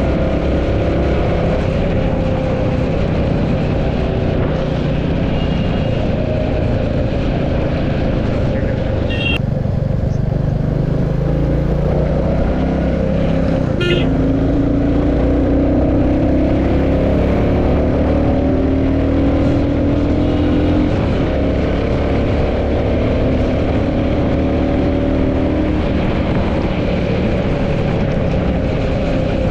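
Royal Enfield Classic 350's single-cylinder engine running as the motorcycle cruises, its note slowly rising and falling with speed. Two short high chirps cut through it about nine and fourteen seconds in.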